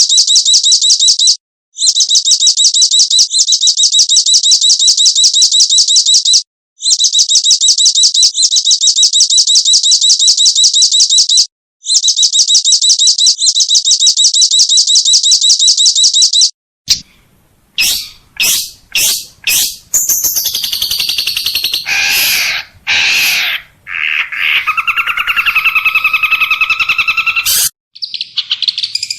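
Recorded songbird calls: a very rapid, high, dry trill repeated in runs of about five seconds with brief breaks, then, about 17 seconds in, a different bird with a few sharp clicking notes followed by a varied warbling song.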